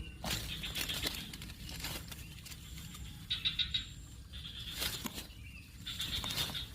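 Coucal chick with its prey: scattered rustling and taps, and three short, buzzy, high-pitched bursts, one early, one past the middle and one near the end.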